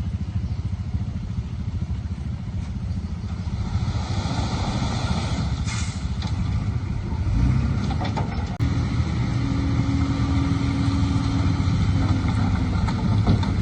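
Heavy diesel machinery engine running steadily. It grows louder about seven and a half seconds in, and a higher steady tone joins it for a few seconds after that.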